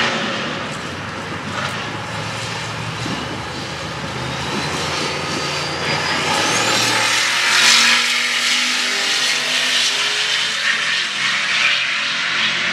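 Drag race engines at full throttle: a Corvette Z06 V8 and a turbocharged LS V8 Chevy truck running down the quarter mile. A thin whine rises steadily in pitch over the first seven seconds.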